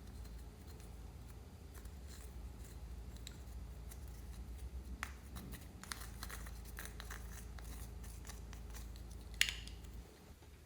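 Small clicks and crackles from objects being handled at close range, thickening in the second half, with one sharper click about nine seconds in.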